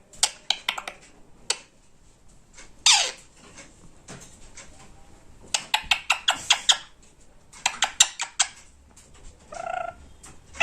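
Pet parrot giving a falling squawk about three seconds in and a short pitched call near the end, between several runs of rapid clicking.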